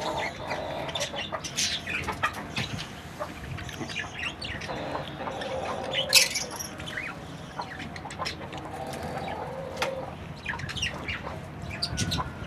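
Pet birds calling, with many short chirps and squawks and one louder sharp call about six seconds in.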